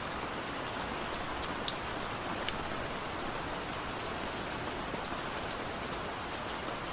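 Steady rain falling, an even hiss with scattered sharp raindrop ticks throughout.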